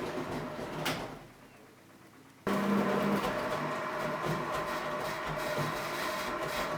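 Philco Bendix W84RX front-loading washing machine running, its drum motor stopping about a second in, pausing for about a second and a half, then starting again abruptly and running steadily, as the drum does when it pauses between tumbling turns in the wash.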